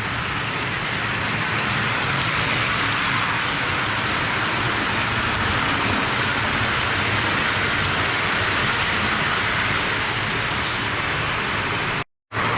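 Postwar Lionel O gauge toy steam locomotive running on its track: a steady rushing rattle of the motor and the wheels on the rails, cut off briefly near the end.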